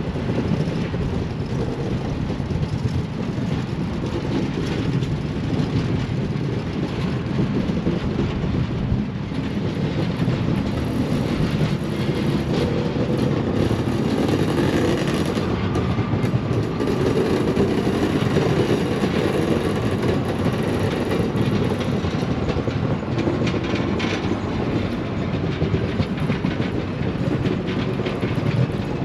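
A train's cars rolling steadily past on the rails, with wheel-on-rail rumble and some clickety-clack over the joints.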